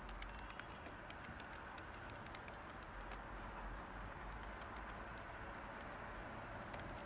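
Light typing on a computer keyboard: scattered soft key clicks over a steady white-noise hiss.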